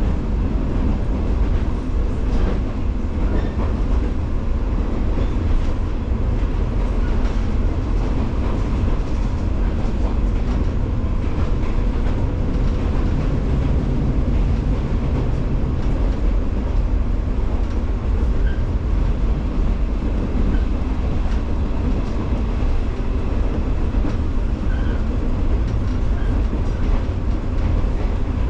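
JR 115 series electric multiple unit running at steady speed: a continuous heavy rumble from the running gear, with faint irregular clicks of the wheels on the track.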